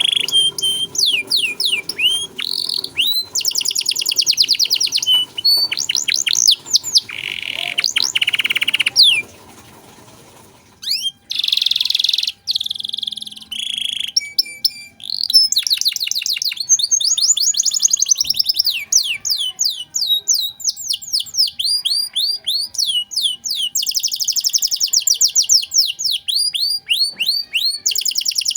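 Domestic canary singing a long, fast song of rapid trills and quickly repeated high sweeping notes, with a short pause about ten seconds in.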